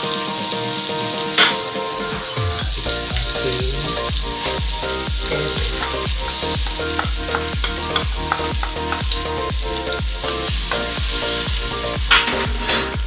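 Minced garlic sizzling in melted butter in a stainless steel pot, stirred with a wooden spatula as diced carrots and bell pepper go in. Background music with a steady beat comes in about two seconds in.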